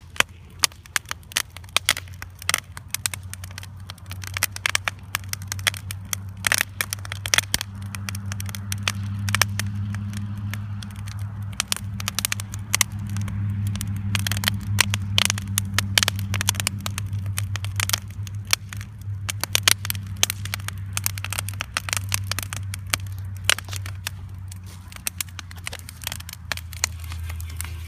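Bonfire crackling and popping, dense irregular snaps throughout, over a steady low hum.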